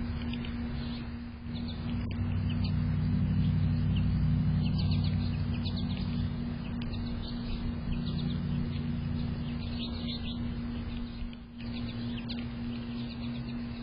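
Small birds chirping, many short, quick falling chirps scattered throughout, over a steady low hum and rumble.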